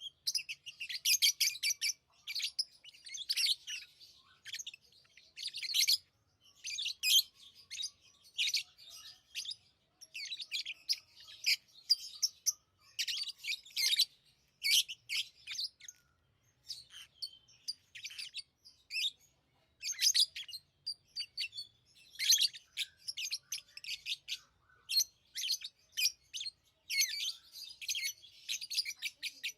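Pet lovebirds chirping: repeated bursts of rapid, high-pitched, shrill chirps, often several birds overlapping, with brief pauses between bursts.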